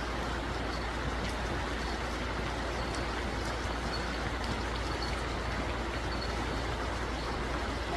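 Steady rushing of a shallow mountain river flowing over rocks, with faint short high peeps now and then.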